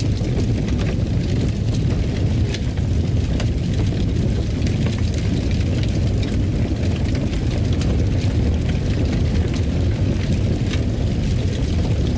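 Wood fire in a fireplace burning, a steady low rumble with scattered small crackles and pops.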